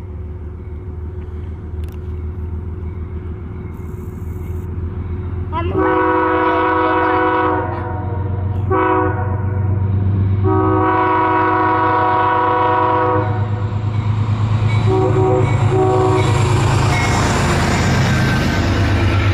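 Amtrak train approaching with its horn sounding: a long blast, a short one, another long one and a final short one, over the low rumble of the train. The rush of the train grows loud near the end as it draws close.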